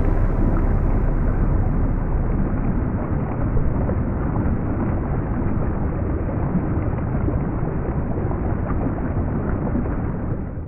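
Steady rushing noise of moving water with wind on the microphone, fading out at the very end.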